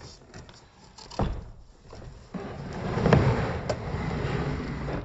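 Packaging being handled and pulled out of a cardboard box, slowed to less than half speed so it sounds deep and drawn out: a few knocks, the loudest about a second in, then a long scraping slide from about halfway through.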